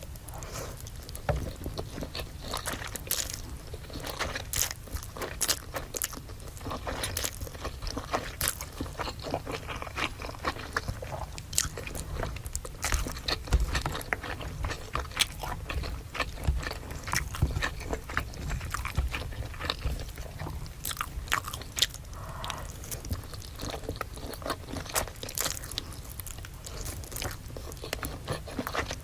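Close-miked eating: repeated crunchy bites and chewing of crispy fried food, with irregular sharp crackles throughout.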